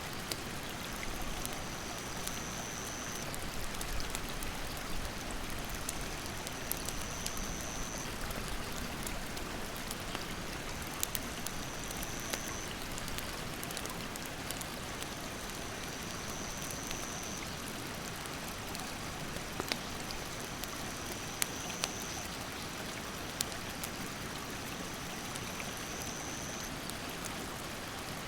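Mountain stream running steadily, with a wood campfire giving sharp crackles and pops now and then. A high, steady insect call sounds in bouts of about two seconds, repeating every few seconds.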